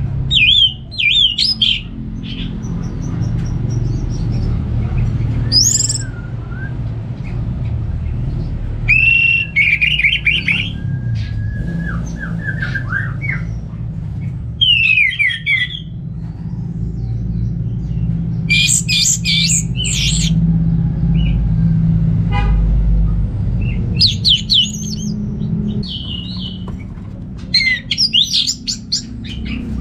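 Orange-headed thrush singing: loud bursts of rapid whistled notes sliding up and down, a new phrase every few seconds, over a steady low rumble.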